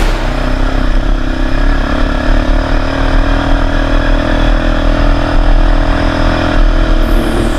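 200 cc quad bike (ATV) engine running steadily under way.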